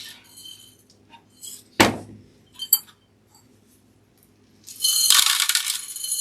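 A glass mason jar clinks and knocks a few times as it is handled. About four and a half seconds in, bird seed starts pouring into the glass jar with a dense, steady rattle that carries on.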